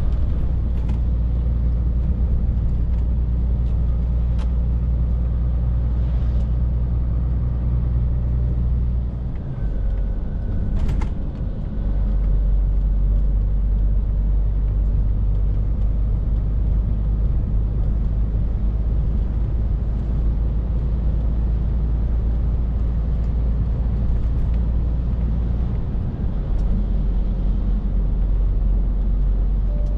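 Scania R450 lorry's 13-litre straight-six diesel running under way, a steady low drone. About nine seconds in the engine note dips for a couple of seconds and settles at a different pitch, as in a gear change.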